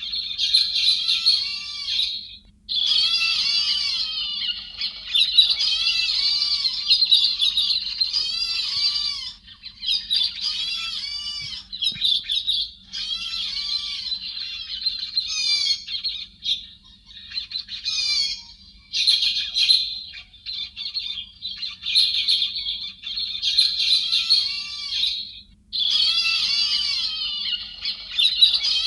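Héc xoan thrushes calling and chattering, a flock-lure recording for bird trapping: fast, dense runs of squawking, warbling notes lasting a few seconds each, with short pauses between runs. A faint steady low hum lies underneath.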